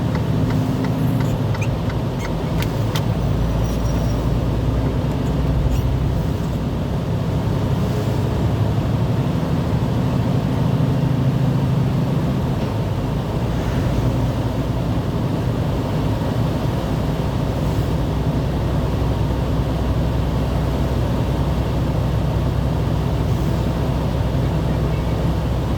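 Steady engine and road noise of a moving vehicle, a constant low rumble, with light regular ticking during the first couple of seconds.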